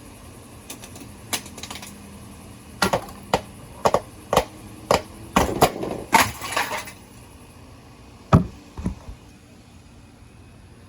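Repeated hammer blows smashing a ceiling fan: a quick run of sharp strikes bunched in the middle, then two more after a short pause near the end.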